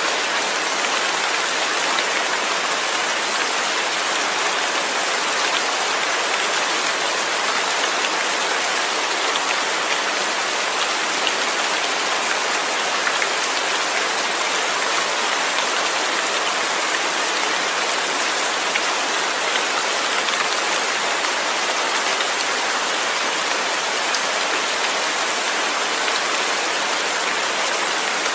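Steady rain falling, an even hiss of drops with tiny individual patters, unchanging throughout.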